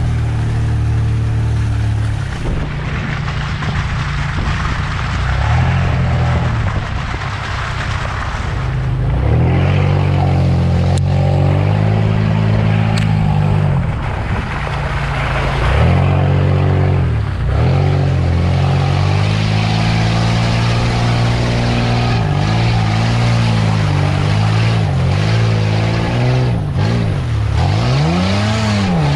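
Engine of a 4x4 off-road vehicle driving on a muddy, snowy track, its revs repeatedly rising and falling as the throttle is worked, with an occasional knock.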